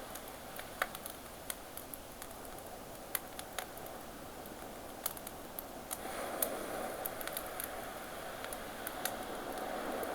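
Campfire crackling with scattered sharp pops over a steady wash of ocean waves; the surf swells louder about six seconds in.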